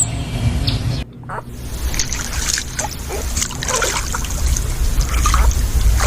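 Water trickling and splashing, with many small irregular splashes, starting after an abrupt cut about a second in.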